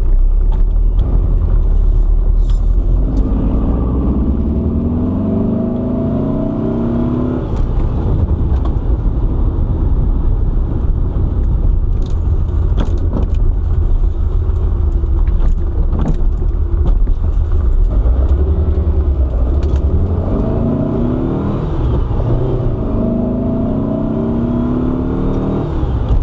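1900 cc air-cooled VW flat-four on dual EMPI 40 IDF carburetors pulling the 1973 Super Beetle along on the road, under a steady low rumble. The revs climb under acceleration a few seconds in and twice more near the end, each climb breaking off as a shift comes.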